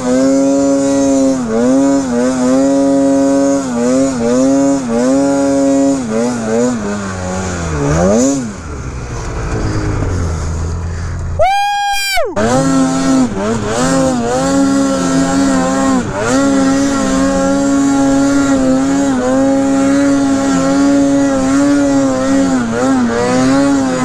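Snowmobile two-stroke engine held at high revs under throttle, with frequent short dips in pitch as the throttle is eased and reapplied. About eight seconds in it drops and revs back up, and around twelve seconds there is a sharp rising rev and a brief cut before it runs high again.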